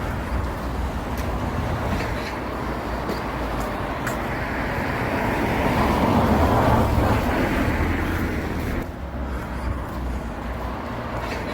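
Road vehicle noise: a steady low rumble that swells to its loudest about six to seven seconds in, then eases off.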